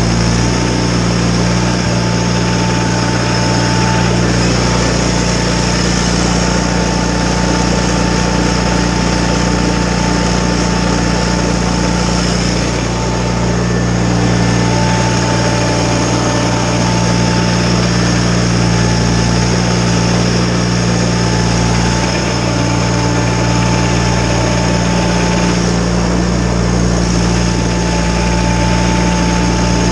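John Deere 318 garden tractor's two-cylinder Onan engine running steadily, driving a front-mounted Model 49 snowblower.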